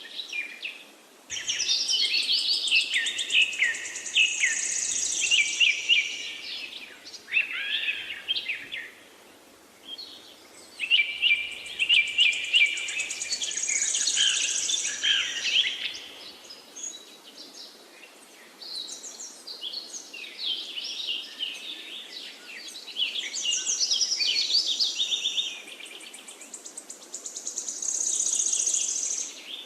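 Songbirds singing long, rapid, warbling phrases in bouts of several seconds, with short pauses between them, over a faint steady hiss.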